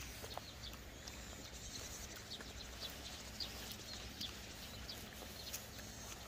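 Small birds chirping now and then, short high notes scattered through, over a low steady outdoor rumble.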